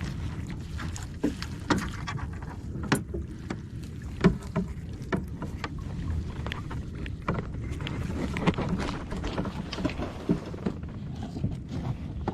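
Water lapping and slapping against a kayak's hull, with frequent small knocks and clicks over a steady low rumble.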